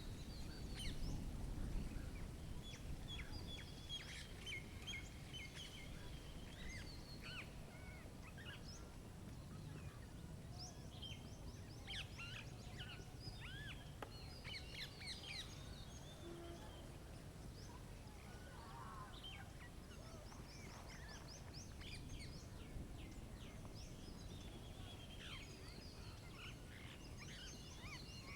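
Several small birds chirping and trilling, short repeated calls from more than one bird, over a steady low background rumble that is a little louder in the first couple of seconds.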